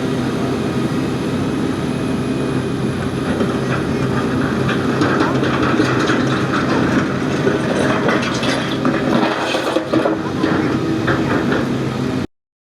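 Heavy demolition machinery running steadily, with irregular clattering and cracking from about five seconds in; the sound cuts off suddenly near the end.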